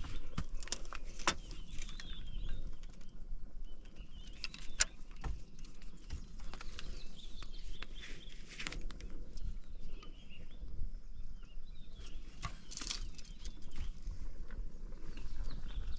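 Irregular footsteps crunching and rustling through forest undergrowth, with occasional bird chirps.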